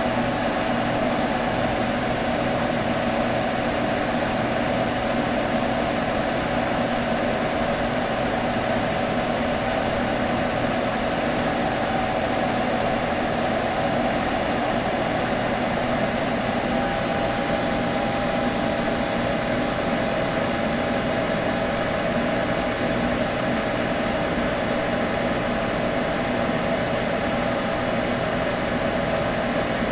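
Computer humming: a steady whirring noise with a constant mid-pitched hum running through it, unchanging throughout.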